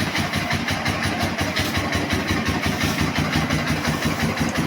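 Ural motorcycle's flat-twin engine idling cold, just after starting, with its chokes still closed; it runs with an even, rapid pulse.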